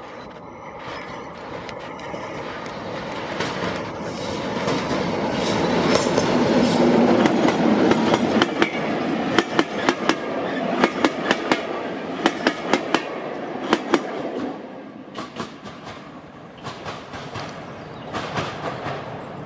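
Diesel locomotive approaching and passing at speed, its engine growing louder to a peak about a third of the way in. Then a train of coaches runs by with a rhythmic clickety-clack of wheels over rail joints, fading as the train goes away.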